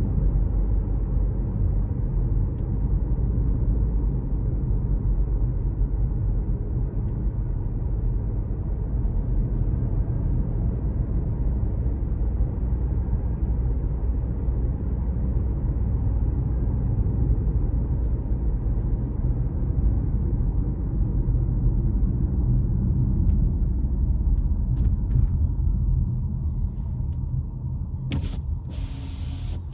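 Car driving along: steady low rumble of engine and tyres on the road, easing slightly near the end, where a brief hiss of about a second and a half cuts in.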